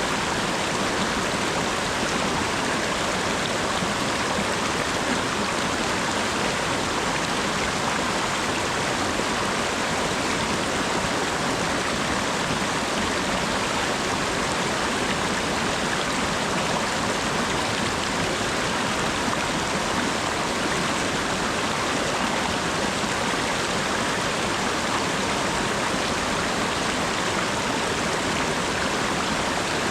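Steady rain falling, an even hiss of water with no single drops standing out.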